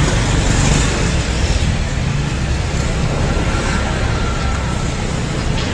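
Steady road traffic noise: a continuous rumble of passing vehicles.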